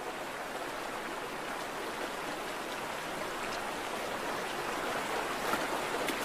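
Stream water rushing steadily, an even hiss-like rush without pitch that grows slightly louder toward the end.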